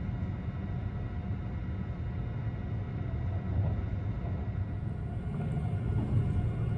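Tobu Spacia limited express electric train running, heard from inside the passenger cabin as a steady low rumble.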